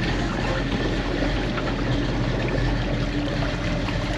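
Boat on the water: a steady rush of water with an even engine hum beneath it.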